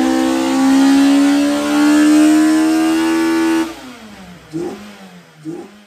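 Car engine accelerating hard, its pitch climbing steadily for about three and a half seconds. Then the throttle lifts and the revs fall away, with two short blips near the end.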